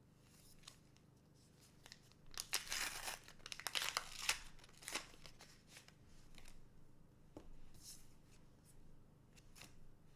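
Trading card booster pack wrapper torn open and crinkled, a dense crackling burst in the middle few seconds, then softer rustling and handling.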